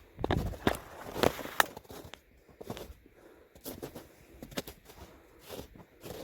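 A hiker's footsteps, about two steps a second, loudest in the first two seconds.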